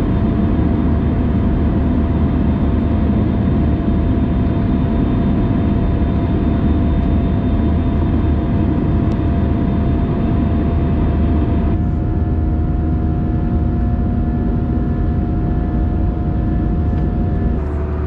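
Airbus A320 jet engines and rushing air heard from inside the cabin: a loud, steady roar with a few held tones. The tones change abruptly about twelve seconds in and again near the end.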